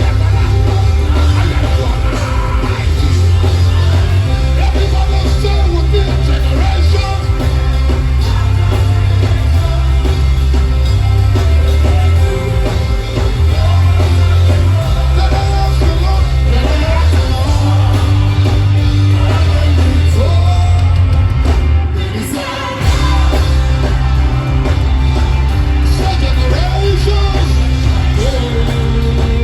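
Live band music with heavy bass and singing, with a short break in the bass about three-quarters of the way through.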